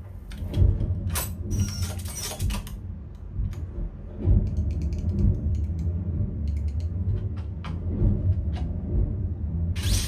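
Film sound effects played back through a soundbar and subwoofer: a deep, steady low rumble under a scatter of mechanical clicks and knocks, with a heavier hit about four seconds in.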